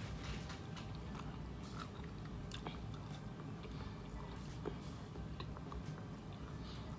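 A person chewing a bite of birria taco close to the microphone, with faint scattered mouth clicks.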